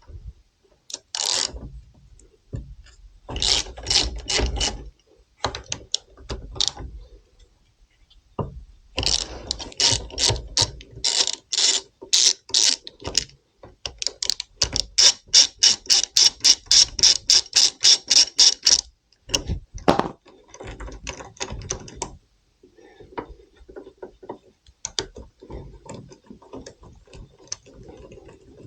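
Ratchet wrench with a 14 mm socket clicking in bursts as it undoes the front brake caliper mounting bolts. The longest, loudest run of fast, even clicks comes about halfway through.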